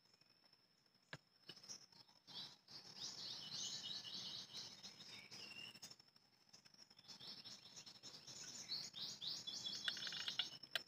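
Small birds chirping in quick runs of high notes, in two spells of a few seconds each, over a faint steady high-pitched tone.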